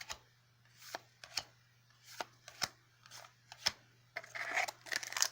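Yu-Gi-Oh! trading cards being handled on a table: light, sharp taps roughly every half second as cards are set down one at a time, then a denser rustle near the end.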